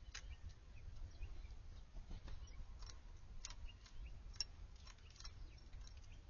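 Small songbirds giving short, faint chip calls, scattered irregularly a few times a second, over a steady low rumble.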